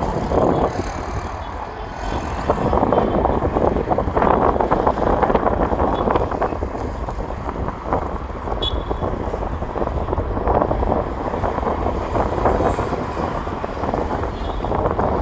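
Strong wind gusting across the microphone, a loud rushing rumble that swells and eases every second or two.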